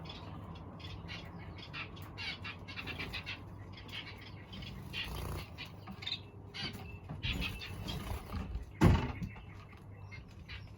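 Aviary birds chirping, many short calls overlapping, over a low steady hum. A single loud thump comes about three-quarters of the way through.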